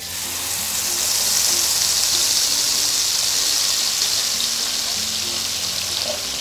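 Wet blended chili-and-shallot spice paste hitting hot oil in a wok and sizzling loudly. The sizzle starts abruptly and eases off slightly toward the end.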